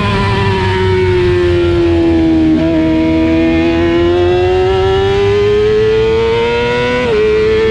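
Racing motorcycle engine heard from onboard. It runs under load, its pitch easing down for a couple of seconds and then climbing steadily as the bike accelerates. Near the end the pitch drops suddenly as it shifts up a gear.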